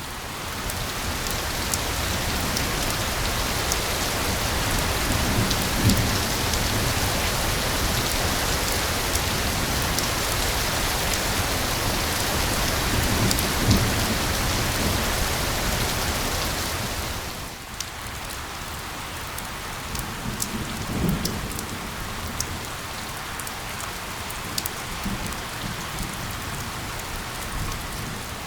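Steady rain pattering, with individual drops ticking on a surface and a few low rolls of thunder. The rain is heavier at first and eases to a lighter level a little over halfway through.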